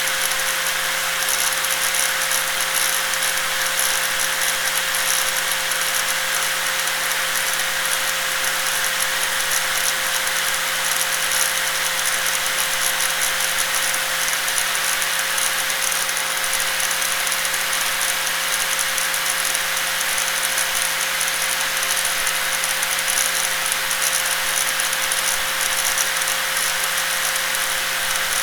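Electric angle grinder running steadily: a constant whine over a dense, hissing rattle that does not change in pitch or level.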